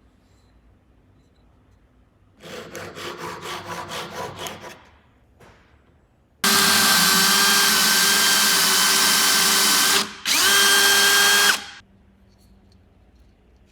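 A quick series of taps for about two seconds, then an electric power tool runs at a steady pitch for about three and a half seconds. It stops for a moment, spins back up and runs for more than a second before cutting off.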